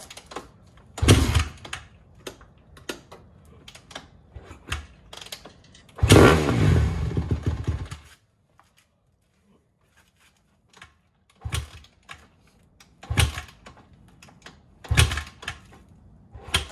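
Honda CRF150R dirt bike's single-cylinder four-stroke being kicked over again and again, giving short bursts, with one longer burst of the engine running for about two seconds before it dies. It is hard starting after sitting for a long time.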